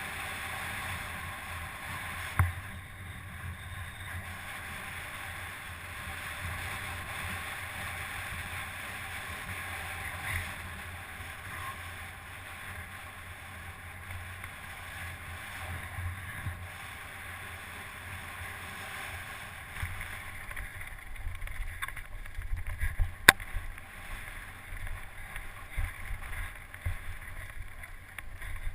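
Wind rushing over the microphone with low rumbling thumps that grow busier in the last third, and two sharp knocks, one about two seconds in and a louder one about three-quarters of the way through.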